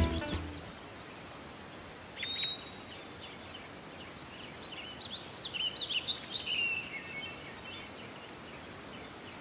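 Birds chirping and whistling over a steady outdoor background hiss, with a quick run of short falling chirps about five to seven seconds in.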